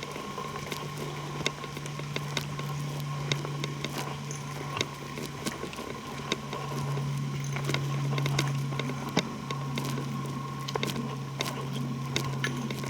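Footsteps crackling over dry twigs and leaves on a forest floor, in irregular sharp clicks, over a steady low hum.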